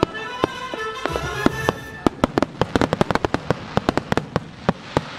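Aerial firework shells bursting: scattered bangs at first, then a rapid barrage of sharp bangs from about two seconds in, over music with held notes.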